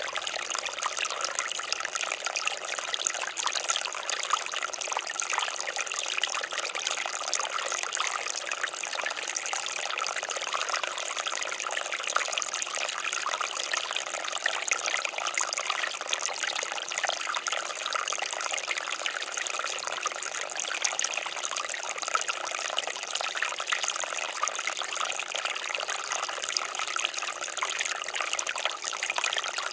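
Water fountain splashing and trickling steadily, a continuous spatter of falling water.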